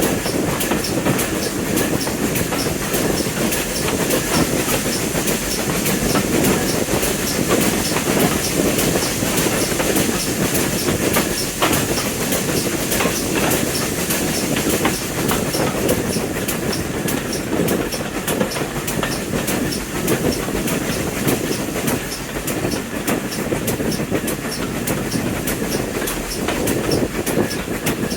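Train running steadily along the line: a continuous rumble with a rapid, even clicking of wheels over the rail joints.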